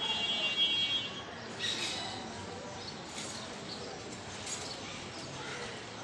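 Small birds calling: a buzzing note in the first second, then short high chirps about two, three and four and a half seconds in.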